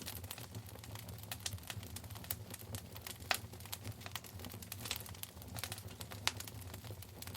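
Wood fire burning in a fireplace, crackling with irregular sharp pops over a steady low rumble of flame; two louder pops, about three seconds in and near the end.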